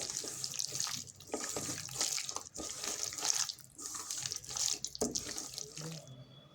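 Raw chicken pieces being mixed by hand in a wet marinade of spices, curd, lemon juice and cornflour, with irregular squelching and slapping that stops about six seconds in.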